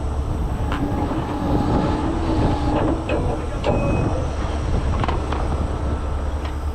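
Heavy tow truck's diesel engine running steadily with a low rumble, with scattered sharp metal clicks and knocks from rigging gear being handled.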